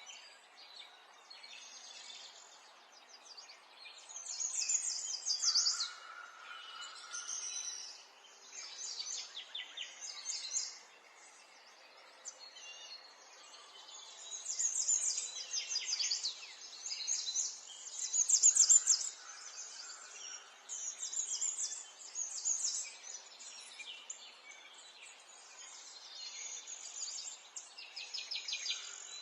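Small songbirds singing and chirping, with phrases of rapid high trills coming every few seconds, some overlapping, over a faint steady background hiss.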